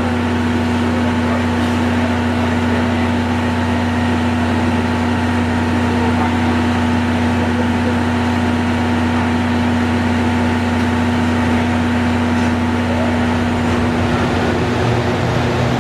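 Steady low mechanical hum of a train standing at the station, unchanging in pitch.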